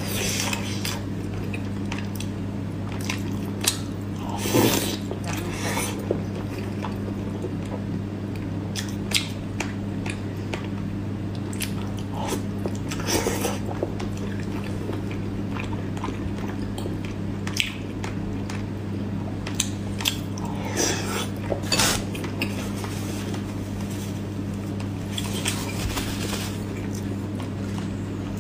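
A person eating: scattered bites and chewing sounds, with a few louder clusters about 5, 13 and 21 seconds in, over a steady low hum.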